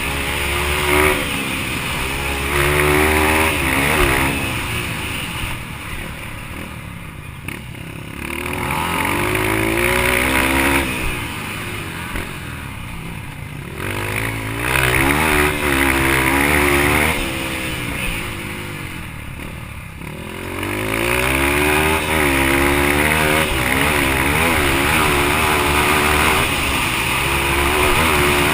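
Yamaha TT-R230's single-cylinder four-stroke engine racing on a dirt track. It rises in pitch as it accelerates and drops back off the throttle several times.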